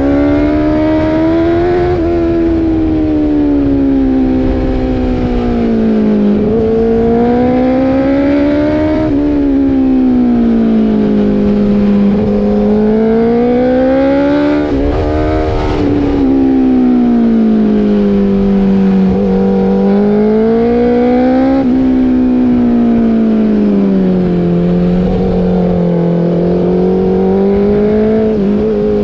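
Motorcycle engine running under a varying throttle, its pitch rising and falling smoothly every few seconds, over a low rush of wind.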